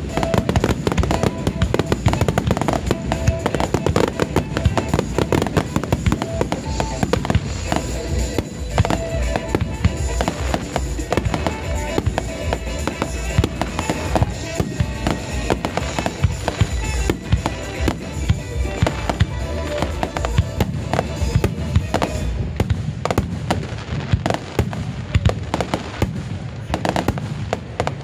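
A rapid-fire starmine fireworks barrage: many shells launching and bursting in quick succession, a dense run of bangs and crackle that never lets up. Music plays along with the bursts.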